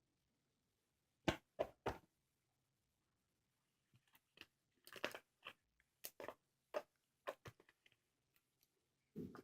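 Slime being pressed and pulled by hand, making sharp sticky clicks and crackling pops. There are three quick pops about a second in, an irregular run of them in the middle, and a duller squelch near the end.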